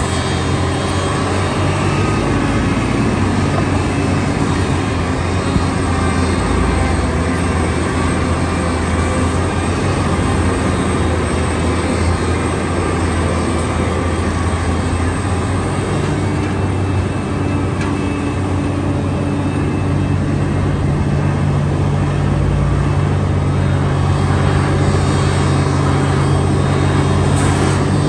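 A construction machine's diesel engine running steadily, with a deep droning note whose pitch shifts slightly about two-thirds of the way through.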